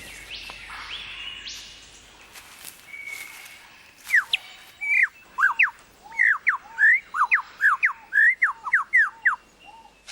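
Superb lyrebird singing: after a few seconds of softer bird calls, a fast run of loud, clear whistled notes begins about four seconds in, each note sweeping up or down in pitch, several a second, stopping shortly before the end.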